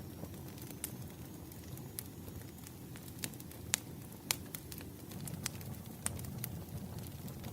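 Campfire burning: wood crackling with scattered sharp pops, the loudest about halfway through, over a low steady rumble of the flames.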